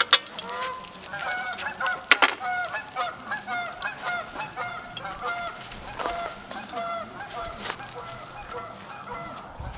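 A flock of geese honking, many short calls overlapping several times a second. A few sharp clicks cut in near the start and about two seconds in.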